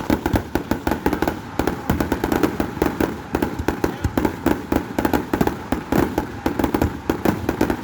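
Fireworks going off in a rapid, unbroken barrage of bangs and crackles, several reports a second.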